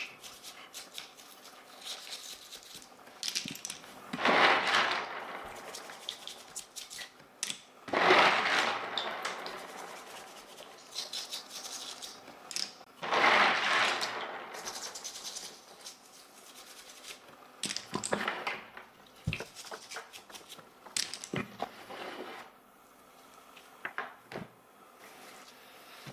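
Hands working on a Fuhlen L411 keyboard: scattered plastic clicks and light knocks, with three longer rubbing or hissing swells, about four seconds apart, each dying away over a second or two.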